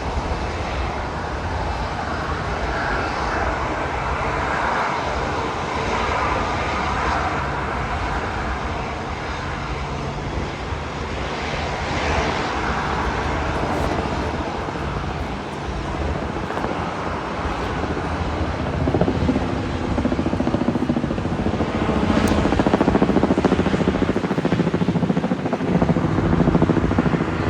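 Jet airliner engines running as a steady noise, growing louder for the last several seconds.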